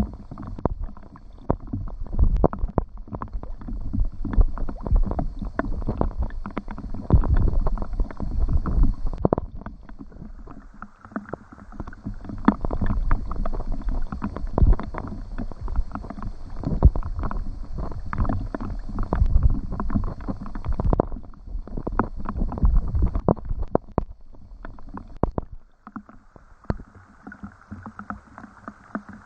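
Rain falling, with heavy drops knocking irregularly on a surface close by and frequent low thuds among them, easing for a moment about a third of the way in and thinning to a softer patter near the end.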